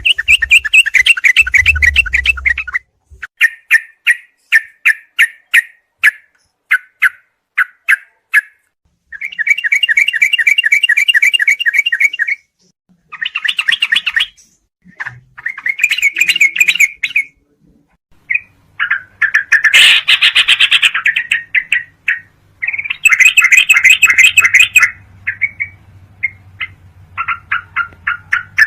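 Yellow-vented bulbul (trucukan) song in the rapid 'ropelan' style: fast runs of chattering notes in phrases of one to three seconds with short pauses between. A faint low hum lies under the later phrases.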